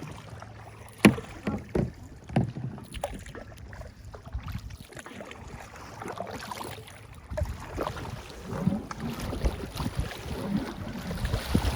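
Canoe on the water with paddle strokes splashing. There are a few sharp knocks in the first few seconds, and choppier splashing and rumble toward the end.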